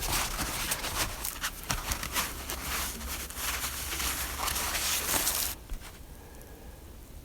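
Footsteps crunching through snow, a quick irregular run of crunches that stops suddenly about five and a half seconds in.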